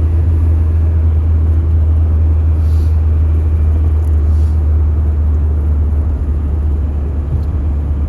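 Steady low rumble of a vehicle on the move, like a car's road noise, easing slightly near the end.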